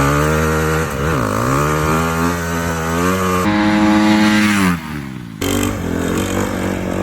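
Dirt bike engine running and revving in a few short cut-together clips. The pitch dips and climbs about a second in, holds steady, and falls away near the five-second mark before the next clip starts.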